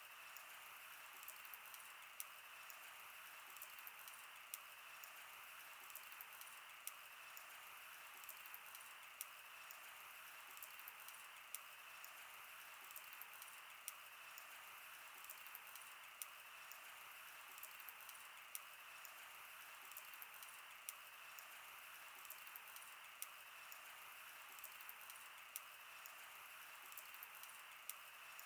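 Wood campfire burning with a faint steady hiss and frequent small, irregular crackles and pops.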